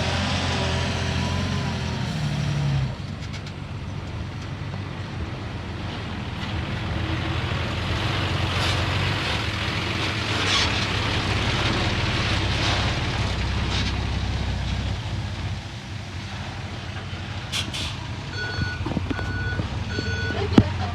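Heavy diesel earthmoving machinery running steadily, with a few short hisses in the middle. A reversing alarm beeps three times near the end.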